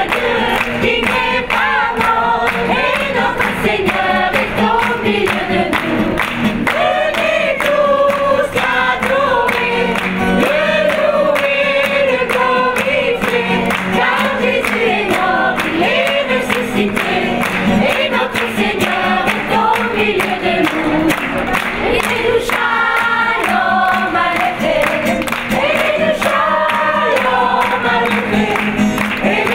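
A choir singing, several voices moving together over a steady low note.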